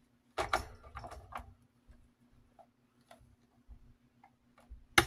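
Desk fan parts being handled during disassembly: a quick run of clicks and rattles about half a second in, scattered small ticks, then one sharp click near the end, the loudest.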